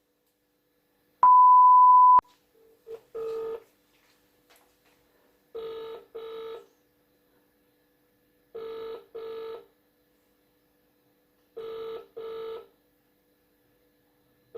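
British telephone ringing tone heard over a phone's loudspeaker: short double rings, 'brr-brr', repeating every three seconds while the outgoing call waits to be answered. A single loud steady beep sounds about a second in, before the ringing starts.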